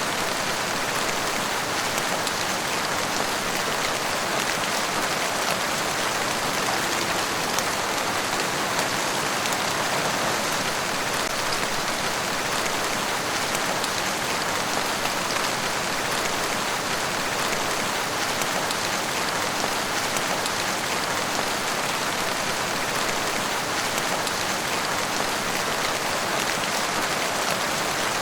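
Steady rain falling on a surface, a dense even hiss of many drops with fine scattered patter.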